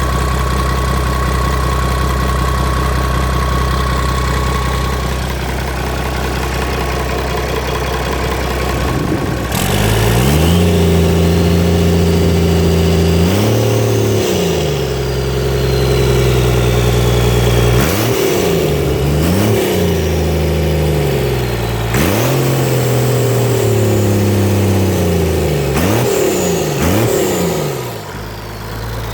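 Perkins Phaser 1006T six-cylinder turbo diesel engine idling steadily, then revved up sharply about a third of the way in and held, then blipped up and down several times before dropping back to idle near the end. A faint high whistle rises and falls with the revs.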